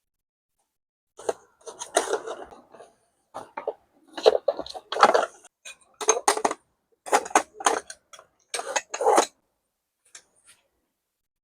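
Irregular clattering and knocking of objects being handled: short bursts and knocks in several clusters, the busiest from about four to nine seconds in.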